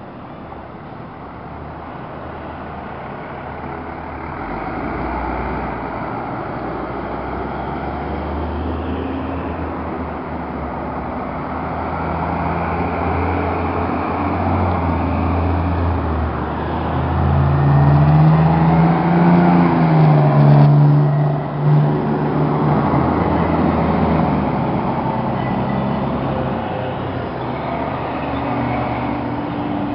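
Heavy fire apparatus diesel engines passing slowly one after another. The engine sound builds to its loudest as a truck goes by about two-thirds of the way through, then eases off.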